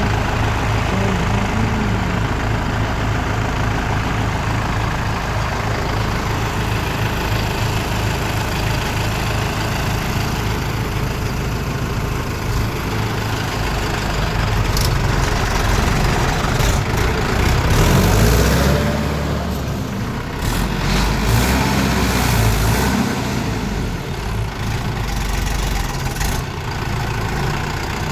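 Mahindra 575 DI XP Plus tractor's diesel engine running steadily, its pitch shifting for several seconds about halfway through, with a few sharp clicks.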